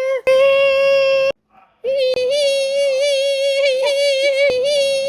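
A voice imitating squeaky brakes: a high, held squeal that stops about a second in, then after a short break a second long squeal that wavers slightly.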